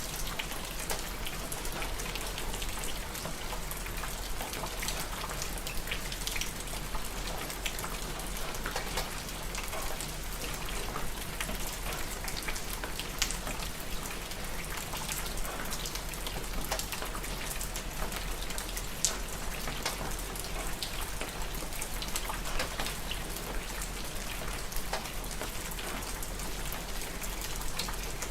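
Steady rain falling, with many separate drops ticking on a hard surface over an even hiss and a steady low rumble underneath.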